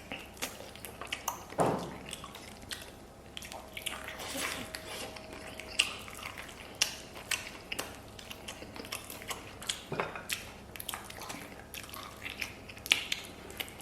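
Close-miked eating: a person chewing and smacking on soft, sticky braised pig's trotter, with many short wet clicks and smacks and a few louder ones.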